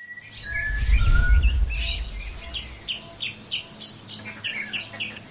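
Small birds chirping, many short quick notes repeating throughout, with a low rumble during the first two seconds.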